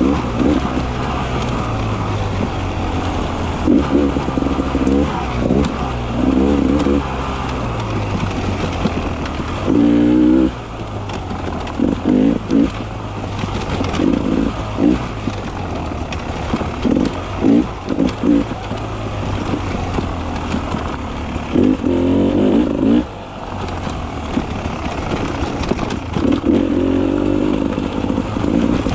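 Two-stroke engine of a Beta 300 RR enduro motorcycle under way, revving up in short bursts every few seconds and falling back off the throttle, over a steady low rumble.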